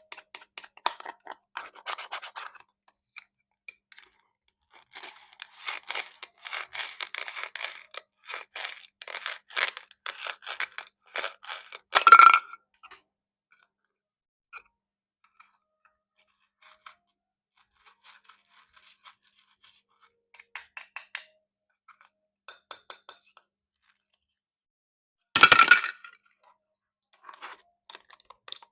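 Plastic play fruit being cut with a knife: scattered light taps and scraping, a stretch of dense crackly scraping, and two louder sharp sounds, about twelve seconds in and near the end.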